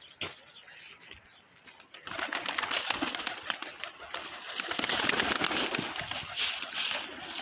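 A flock of domestic pigeons, quiet at first, then a dense rustle of flapping wings and bird noise from about two seconds in that stays loud to the end.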